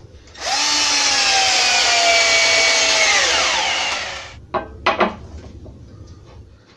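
Electric drill running at speed for about three seconds, its whine falling in pitch as it winds down, followed by two light knocks. It is screwing a door frame to the wall.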